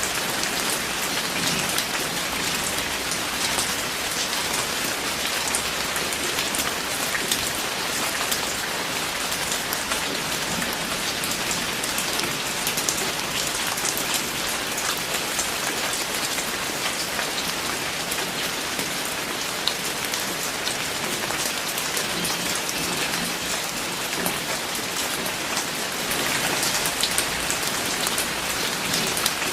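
Steady rain falling on a hard surface, a dense even hiss full of individual drop ticks.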